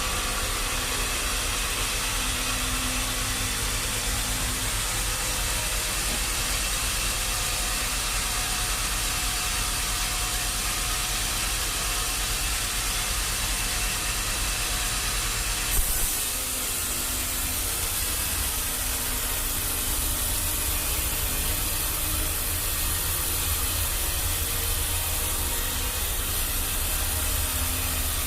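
Sawmill machinery running: a steady hiss over a low rumble, with a brief knock and a sudden change in the sound about sixteen seconds in.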